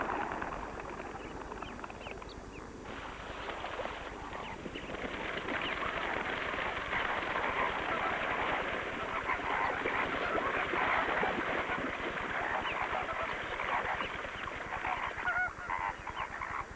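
A large flock of lesser flamingos calling: a dense chorus of many overlapping calls that swells about three seconds in and thins out near the end.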